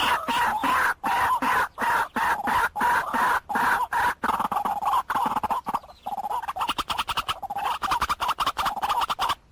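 White-breasted waterhen calling, a fast unbroken run of repeated harsh notes centred near the middle of the pitch range. It is a recorded decoy call for luring the birds to a trap, and it cuts off just at the end.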